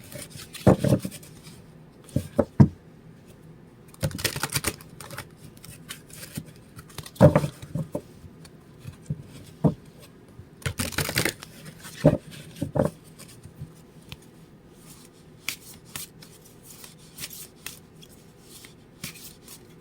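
An oracle card deck being shuffled by hand: short bursts of cards sliding and slapping together with sharp clicks, several times over. After the halfway point the bursts give way to lighter, scattered taps of the cards.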